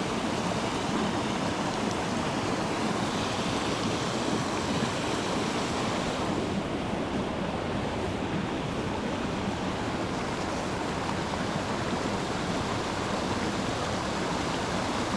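Steady rush of a small creek's flowing water, with no distinct events.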